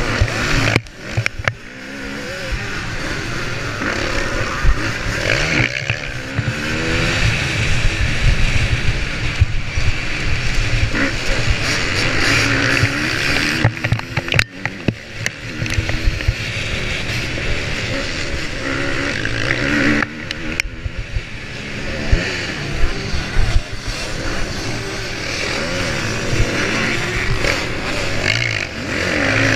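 Motocross motorcycle engine heard from onboard, revving up and falling off again and again through the gears, with wind and ground noise on the microphone. The engine drops away briefly a few times.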